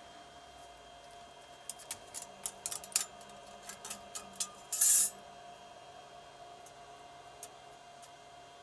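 Small metal engine parts clinking and tapping as the cam chain guide is fitted into a motorcycle engine: a quick run of light clicks, then one short, louder scrape about five seconds in.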